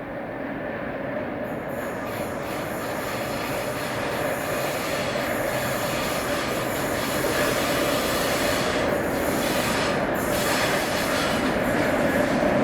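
Train running along the track toward the microphone, a dense rumble and rail noise that grows steadily louder.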